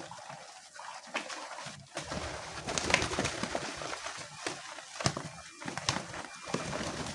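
A flock of homing pigeons cooing while feeding, over a clatter of many small clicks and scuffles.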